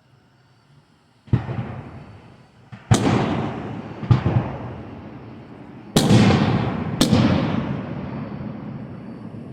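Aerial fireworks shells bursting: five sharp booms over about six seconds, the fourth and fifth loudest, each trailing off in a long rolling rumble.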